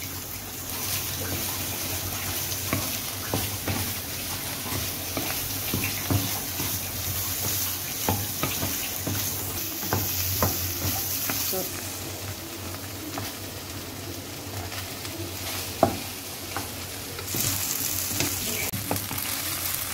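Stir-frying in a nonstick wok: a steady sizzle, with a wooden spatula scraping and tapping against the pan as chicken, egg and greens, then rice, are tossed. One sharper knock of the spatula comes late on, and the sizzle grows a little louder near the end.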